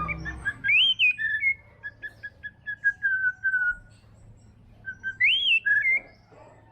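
White-rumped shama singing: a loud rising-and-falling whistle about a second in and another near the end. Between them runs a series of quick short notes, about five a second, that drift slightly lower in pitch.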